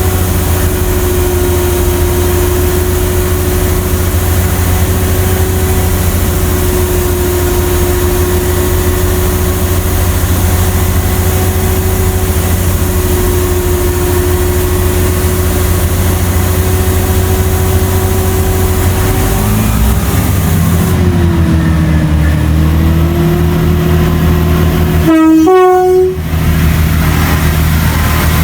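A train running steadily with a loud, even engine hum; its pitch dips briefly past the middle. Near the end there is a short horn blast, the loudest moment.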